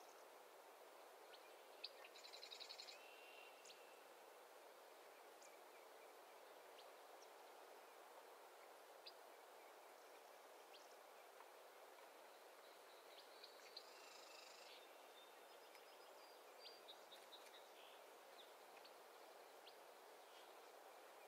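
Faint natural ambience: a steady soft hiss with scattered brief bird chirps, and two short rapid bird trills, one about two seconds in and another around thirteen seconds in.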